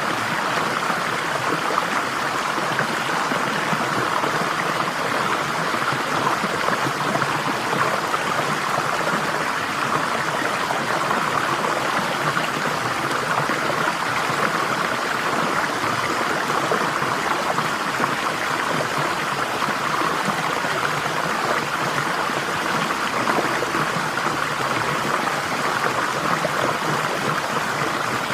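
Flowing water, a steady unbroken rush with no separate splashes or drops standing out.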